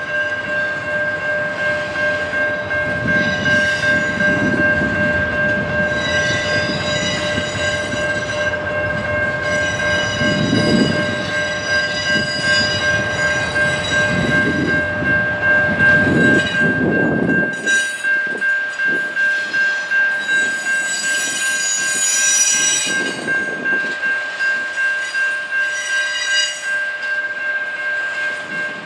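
A train rolling past with a steady high-pitched wheel squeal over the rumble and rhythmic clatter of its cars; the low rumble falls away about two-thirds of the way through.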